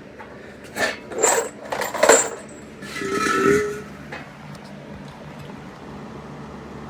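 A few sharp metallic clinks, then the Honda Pioneer 500's engine starts about three seconds in and settles into a steady low idle through its newly fitted exhaust tip.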